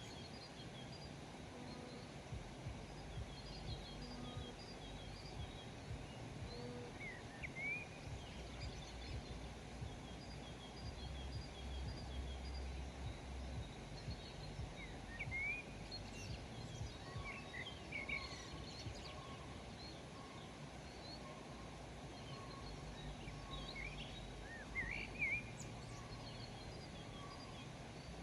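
Small birds chirping and calling in short, scattered notes, busier a little past the middle and again near the end, over a steady low background rumble.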